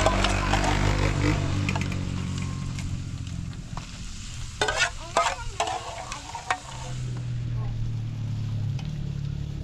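Food sizzling and frying in a pan, with a spoon stirring in the pots. There are a few sharp clicks about halfway through.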